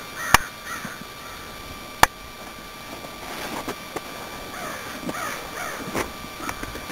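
Birds calling, with two sharp clicks, one about a third of a second in and one about two seconds in.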